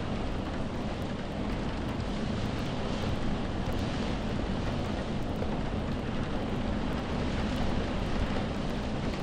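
Steady rain ambience: an even rushing hiss over a low rumble, with no separate drops or events standing out.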